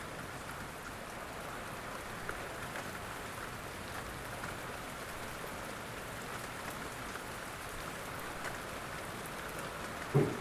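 Steady rain falling, with scattered faint drop ticks. Just before the end comes a short, louder low thud.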